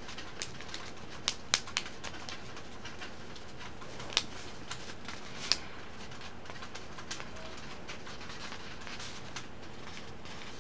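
A sheet of paper being folded and creased by hand, with a few sharp crackles and rustles over a steady hiss.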